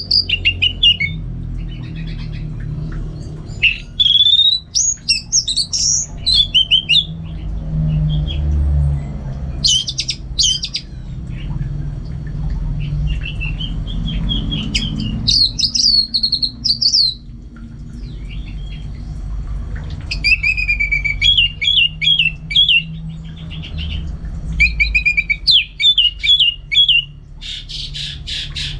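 Orange-headed thrush (anis merah) singing in bursts of rapid, varied whistled phrases with short pauses between them, over a low steady hum.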